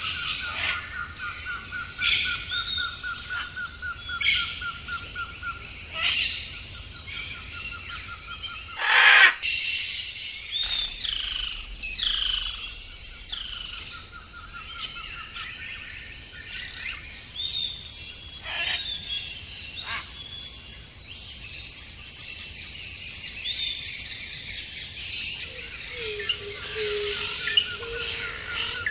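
A chorus of wild birds chirping and calling, many short calls overlapping. A rapid even trill runs low beneath the first third and comes back near the end, and one loud call stands out about nine seconds in.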